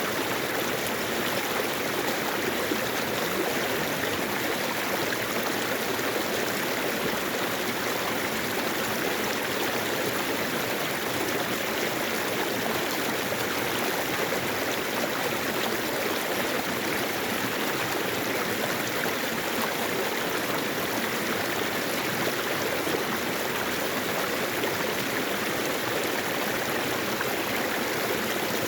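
Mountain valley stream: water flowing in a steady, unbroken rush.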